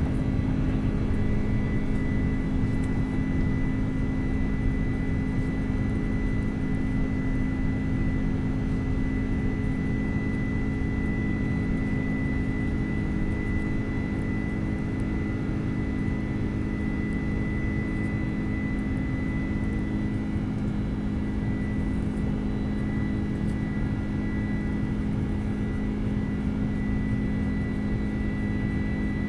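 Steady drone of an airliner heard from inside the cabin: a constant rushing noise with low hums and a thin high whine, all holding one pitch.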